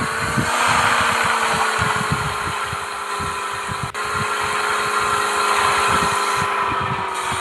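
Mahindra Thar's engine running steadily, with a steady tone that sinks slightly in pitch and a brief dropout about four seconds in.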